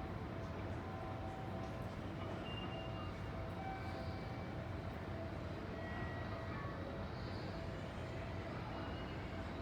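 Seibu Line train rolling slowly at the station: a steady low rumble with brief faint high-pitched squeals now and then.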